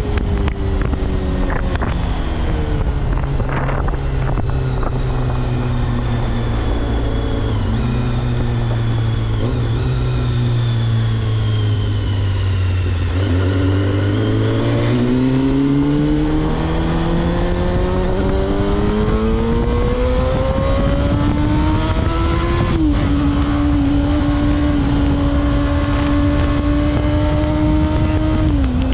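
Honda CBR250RR MC22's inline-four engine heard from the saddle while riding, with wind rushing past. The engine note falls slowly for about twelve seconds, then rises steadily as the bike accelerates. Just past the middle the pitch drops sharply as it shifts up a gear, then holds steady, and it drops again right at the end.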